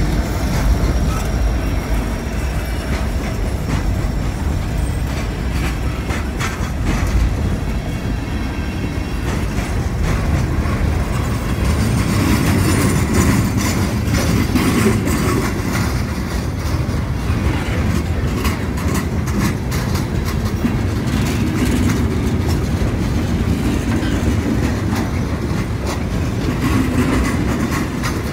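A CN freight train rolling past close by: the second of two SD70M diesel locomotives goes by at the start, then freight cars follow, with a steady heavy rumble and the clickety-clack of wheels over the rail joints.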